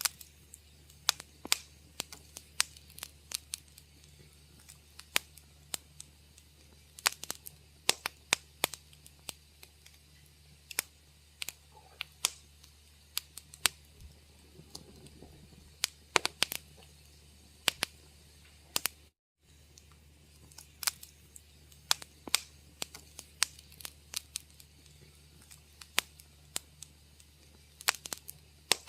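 Wood fire crackling in a fireplace: irregular sharp pops and snaps, several a second at times, over a steady low hum. The sound cuts out completely for a moment about two-thirds of the way through.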